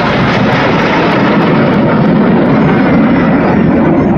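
Aircraft flying past, a loud, steady engine rush without a clear pitch.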